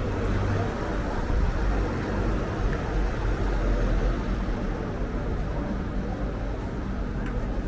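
Strong wind rumbling and buffeting on the microphone over steady street traffic.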